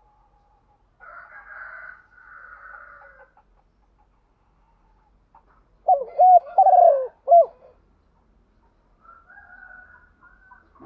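Spotted dove cooing: one loud phrase of about four notes near the middle, with fainter bird calls before and after it.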